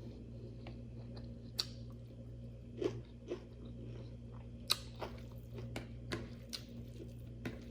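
Close-up eating sounds: a person chewing a mouthful of rice and chicken curry, with scattered short wet clicks and smacks of the mouth, over a steady low hum.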